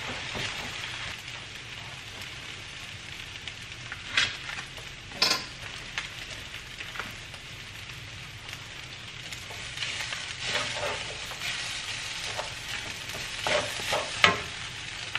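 Fried rice with mixed vegetables sizzling in a wok over a gas burner while being stirred and scraped with a wooden spatula. There are a few sharp clacks of the spatula against the wok, the loudest near the end.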